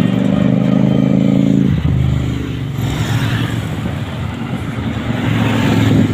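Motorcycle engine running under throttle. Its note drops sharply about two seconds in, then builds again toward the end.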